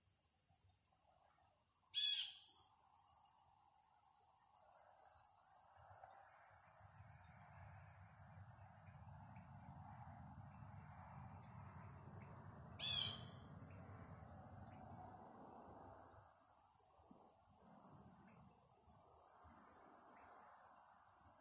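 Two short, loud bird calls about eleven seconds apart, each a quick falling run of notes, over a steady high chorus of insects. A low rumble swells and fades in the middle.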